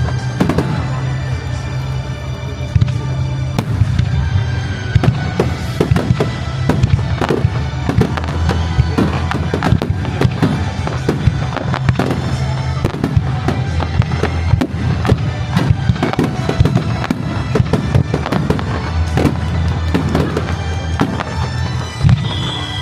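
Aerial fireworks display by the Kagiya fireworks makers: rapid, continuous bangs and crackling shell bursts, with music playing underneath.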